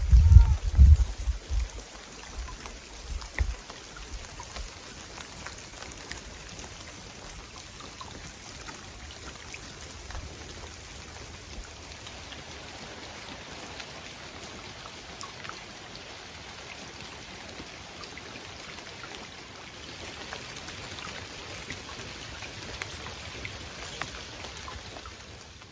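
Light rain: a steady hiss with scattered faint ticks of drops. A few low rumbling thumps come in the first few seconds.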